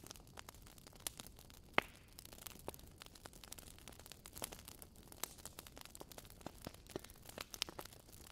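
Wood fire crackling in a fireplace stove: irregular small pops and snaps, a few sharper ones, over a faint hiss.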